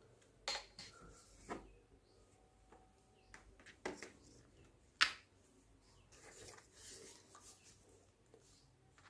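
Faint handling noise: four separate light clicks or knocks spread over the first five seconds, then a soft rustle of several seconds.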